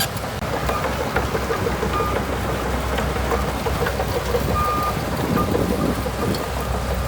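Shantui DH17C2 crawler bulldozer running under steady engine load while its tracks clank in a quick, even rhythm. A few short, high beeps sound twice, about 2 seconds in and again near 5 seconds.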